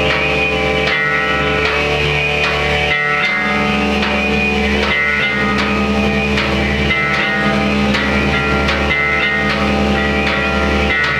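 Loud live rock music: amplified guitar and bass holding sustained chords, with occasional sharp hits.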